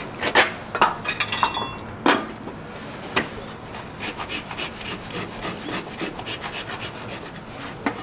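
Farrier's rasp scraping a horse's hoof: a few sharp strokes and a brief metallic ring, then a steady run of quick rasping strokes, about four a second.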